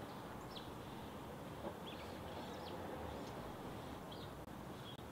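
Birds chirping: several short, high chirps, a second or so apart, over a faint steady background hiss.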